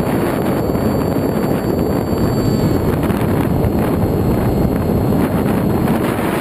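Steady rushing wind noise on the microphone of a camera carried aboard an FX-61 flying-wing model plane in flight.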